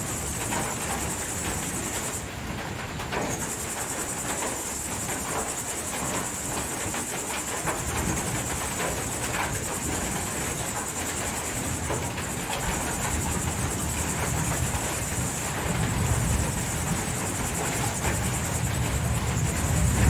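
Rain falling at night under a steady high-pitched cricket trill, which drops out for about a second a couple of seconds in. A low rumble builds toward the end.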